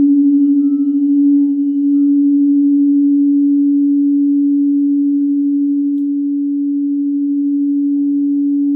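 Singing bowl ringing with a long, steady tone that pulses gently as it sustains. About 8 seconds in, a second, lower bowl tone joins it.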